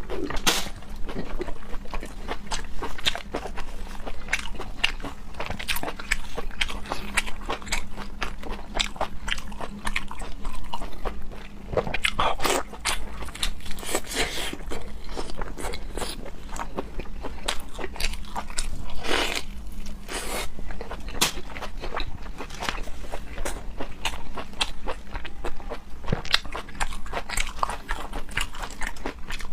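Close-miked eating: a person biting and chewing food, with many irregular crisp crunches and wet mouth clicks.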